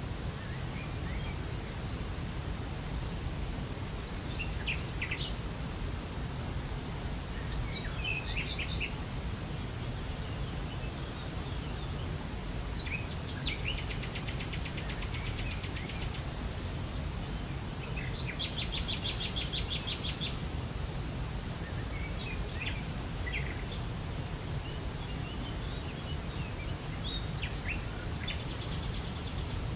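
Steady rush of falling water with small birds calling over it: scattered chirps and several fast trills, a high thin one about halfway through and a lower one a few seconds later.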